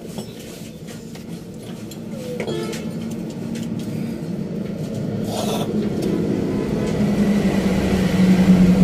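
A motor vehicle's engine running, growing steadily louder, with a brief squeak about two seconds in and a short rustling burst about five seconds in.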